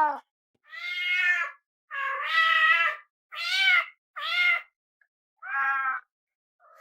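A domestic cat meowing repeatedly: about six separate drawn-out meows with short pauses between them, the longest about two seconds in, and the last one faint near the end.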